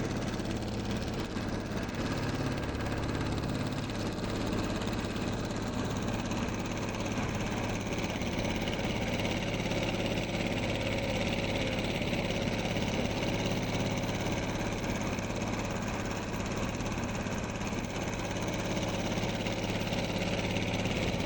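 An engine running steadily at a low, even speed, like idling.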